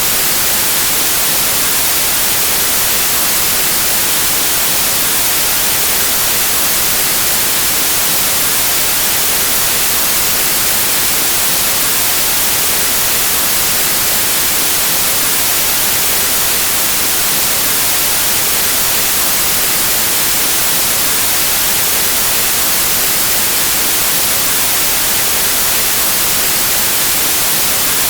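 Steady, loud white noise: an even, unchanging hiss with no tones or breaks, brightest in the highs.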